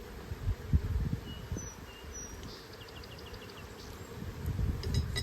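Honeybees buzzing around an open hive during an inspection, an uneven low hum that swells louder about a second in and again near the end. A few short high chirps and a quick trill of about six notes sound partway through.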